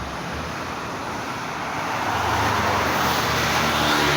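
Heavy truck climbing a steep grade, its engine under load and growing steadily louder as it approaches.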